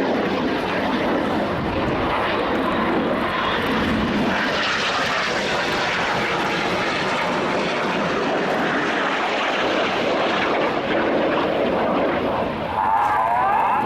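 Jet noise from Red Arrows BAE Hawk jets flying their display: a loud, steady rush that swells somewhat about four to six seconds in.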